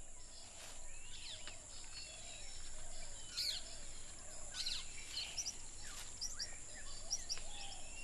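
Forest birds chirping: many short high chirps and quick whistled glides, scattered irregularly over a soft background hiss of forest ambience.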